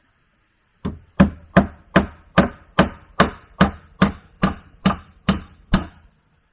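A hand tool chopping into wood: about thirteen even, rhythmic blows, roughly two and a half a second, each ringing briefly.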